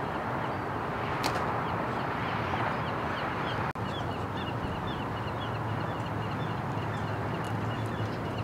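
Birds chirping over and over over a steady background wash of noise, with one sharp click about a second in and a momentary dropout near the middle.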